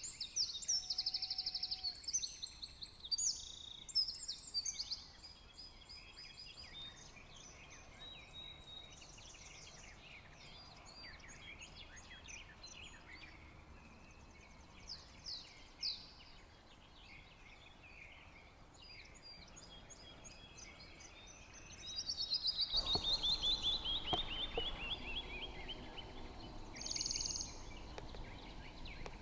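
Small songbirds chirping and singing outdoors, busiest in the first few seconds and then scattered. About two-thirds of the way through, one bird sings a long run of notes falling steadily in pitch, while a louder rush of outdoor noise rises for a few seconds.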